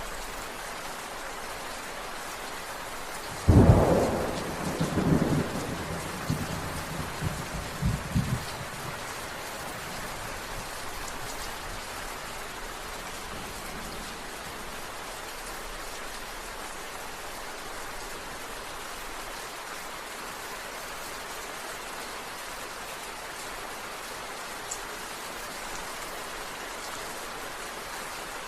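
Steady rain falling, with a sudden clap of thunder about three and a half seconds in that rolls on in several rumbles and dies away about five seconds later.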